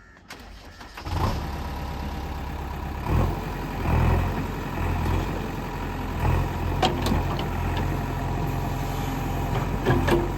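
A heavy diesel engine starts about a second in and settles into a steady idle, with two brief rises in revs a few seconds later. A few sharp metallic knocks come through over the running engine near the end.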